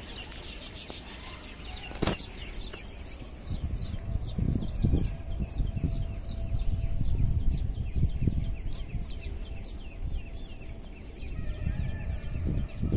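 Birds chirping in quick, repeated short calls. Low rumbling gusts on the microphone come and go from about four seconds in, with a single sharp click about two seconds in.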